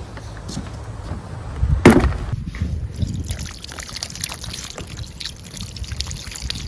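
Liquid trickling and pouring, with many small crackles and a single loud knock about two seconds in.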